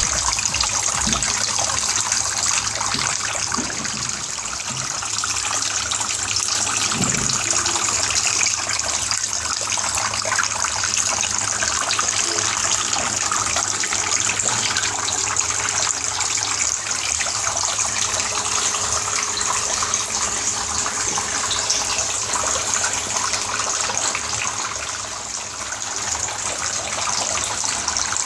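Small homemade plastic-bottle tabletop fountain running, water splashing and trickling steadily.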